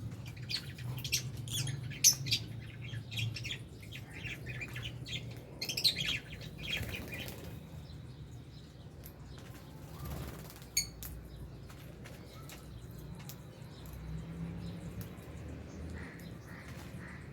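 A flock of lovebirds chirping and calling, with wings flapping. The chirping is busy for the first seven seconds or so, then thins to scattered calls and clicks, with one sharp chirp near the eleventh second.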